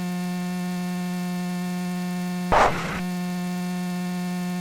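Steady electrical hum on the aircraft intercom audio feed, one fixed pitch with a stack of overtones. About two and a half seconds in it drops out for half a second under a short burst of hiss.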